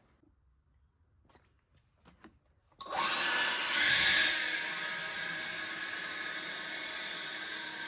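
A motor-driven machine switches on about three seconds in with a sudden rush of air noise and a whine. It swells for a moment, then runs steadily.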